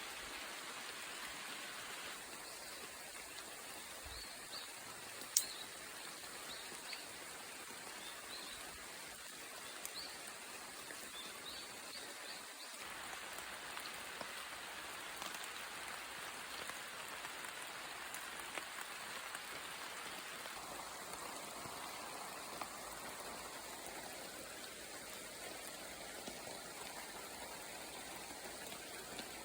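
Steady rain falling in a forest, an even patter of drops on leaves and ground. A few faint high chirps come through in the first half, and there is a single sharp tick about five seconds in.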